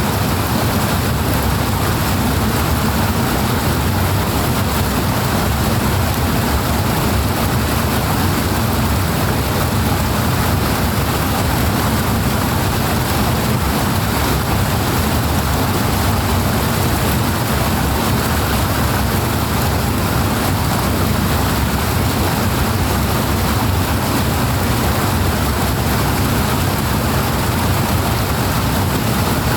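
Powerful rushing water, a steady, heavy wash with its weight in the low end.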